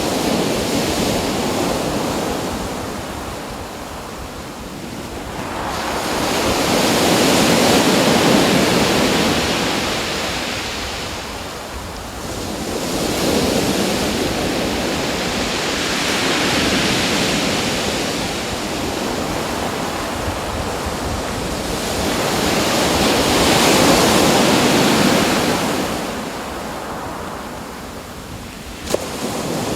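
Waves washing in, a steady rushing that swells and fades about every eight seconds. A single sharp click sounds just before the end.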